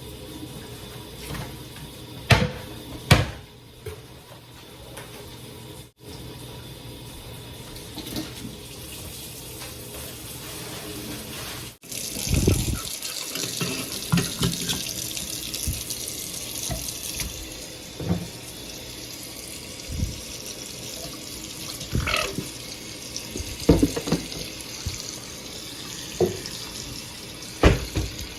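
Water running steadily from a tap into a sink, loudest from about twelve seconds in, with scattered knocks and clatter of items being handled.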